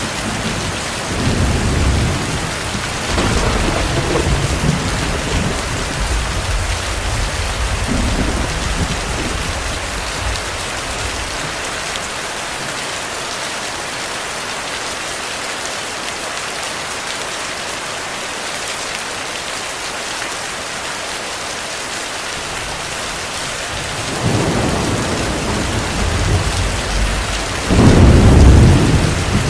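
Heavy rain falling steadily with rolling thunder. Low rumbles come and go over the first third, die down for a while, then return near the end and build to the loudest thunder of the stretch.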